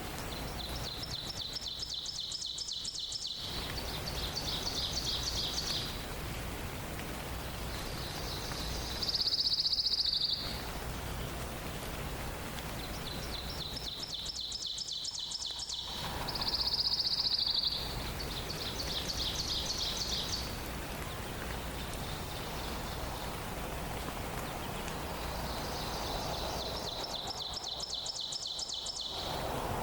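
A small songbird singing a high, rapid trill, repeated about six times with pauses of a few seconds; two of the songs, about nine and seventeen seconds in, are louder and buzzier. Steady background noise runs beneath.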